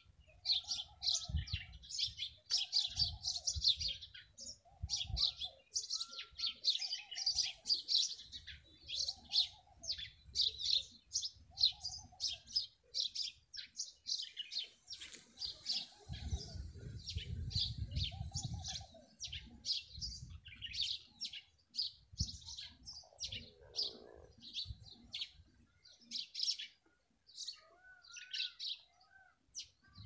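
Birds chirping and tweeting in quick, high-pitched calls, several at once, with a lower call repeating about every second or two through much of it.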